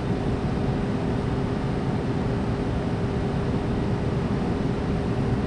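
Steady rushing hiss with a low hum and a faint held tone, unchanging throughout: the background noise of an empty cellar picked up by an unattended camcorder's microphone.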